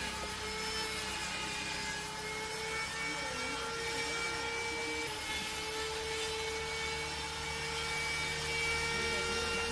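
A machine running steadily, with a constant whine over an even hiss.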